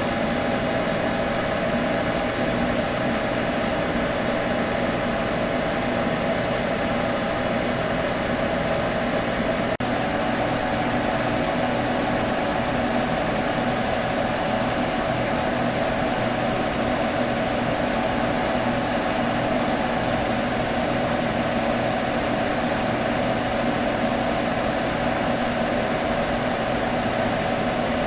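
Computer running with a steady fan whir and hum, a couple of held tones droning under an even rushing noise. It drops out for an instant about ten seconds in.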